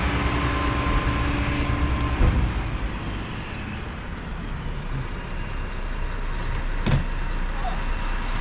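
Heil-bodied Mack LR recycling truck running, loud with a steady whine for about two seconds and then a clunk, after which it settles lower. A single sharp knock comes near the end.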